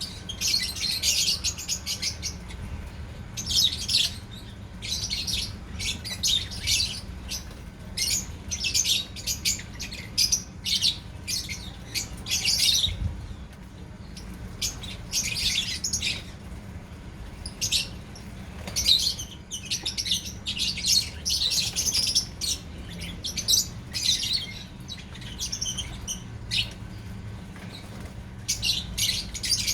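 A group of lovebirds chirping and squawking in quick, irregular high-pitched bursts that go on throughout, over a steady low hum.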